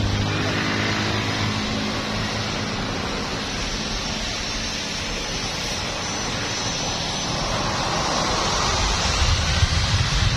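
Jet airliner's engines at takeoff power: a steady loud rushing noise, with a deep rumble building near the end.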